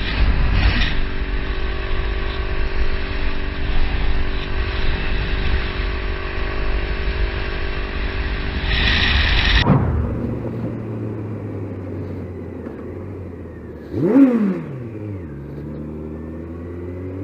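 Motorcycle engine running steadily under way, with rushing wind noise. About ten seconds in it drops suddenly to a quieter steady hum. Near the end a vehicle goes by, its engine note rising briefly and then falling away.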